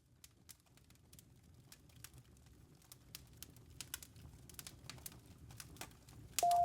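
Campfire crackling, with sharp scattered pops over a low rumble, fading in from silence and growing louder. Near the end a loud, steady ringing tone starts abruptly.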